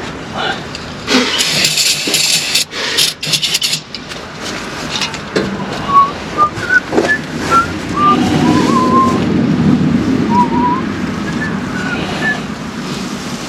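Repeated hissing bursts of spray in the first few seconds, used to clean a corroded transmission solenoid connector. Later comes a run of short, high chirping whistles over a low rumble.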